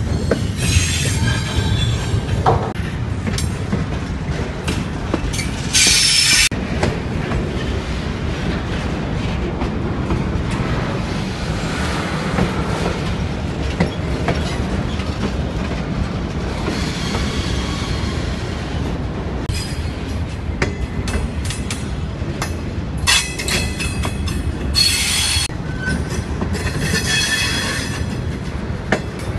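Heavy freight train's cars rolling past with a steady low rumble and rapid wheel clicks over the rails, broken by several high-pitched wheel squeals, the loudest about six seconds in and a run of ringing squeals near the end.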